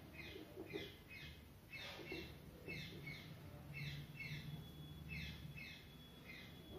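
A bird chirping, faint: a steady run of short, falling chirps, about two a second, over a low steady hum.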